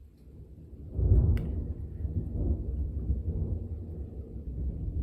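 Thunder rumbling: a low rumble swells, breaks into a loud peal about a second in, then rolls on steadily, following a lightning flash seen some seconds earlier.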